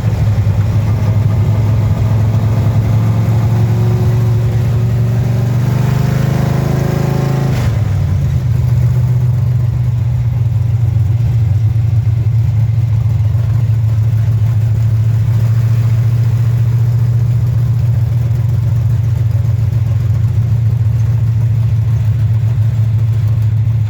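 Small-block 350 Chevy V8 in a 1928 Ford Model A hot rod, bored .060 over with a cam, running at idle. It is revved once, its pitch climbing from about two seconds in and dropping back abruptly at about seven and a half seconds, then it settles into a steady idle.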